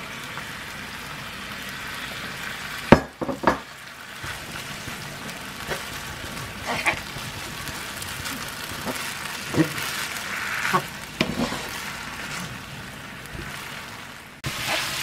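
Rice noodles and beef frying in a pan with a steady sizzle, stirred with a wooden spatula that knocks against the pan a few times. The sizzle turns abruptly louder near the end.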